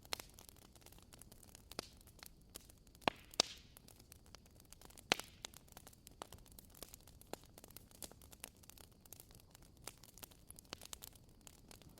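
Burning firewood crackling, with irregular sharp pops over a faint hiss; the loudest pops come about three and five seconds in.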